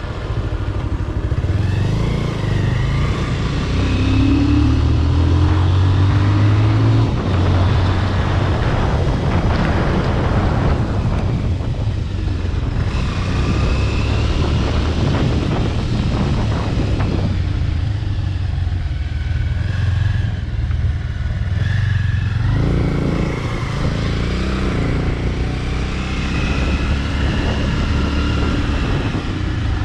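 Bajaj Pulsar RS200 single-cylinder engine running through a modified aftermarket exhaust at riding speed, with wind and road rush on the mic. The engine note climbs for a few seconds, about a fifth of the way in, as the rider accelerates, then settles to a steady drone.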